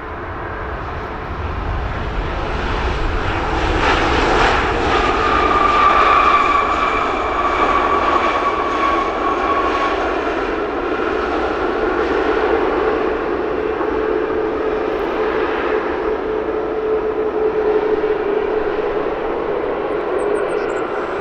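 Jet airliner passing close by as it comes in to land. The engine rumble and whine build over the first few seconds, the whine sags slightly in pitch as it goes by, and a steadier lower drone holds through the second half.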